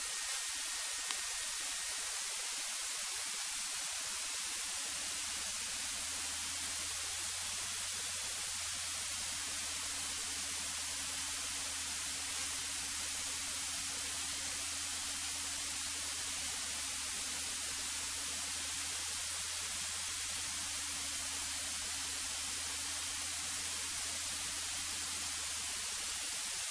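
Steady static hiss on the cockpit intercom audio line, with a faint low hum that comes in about five seconds in.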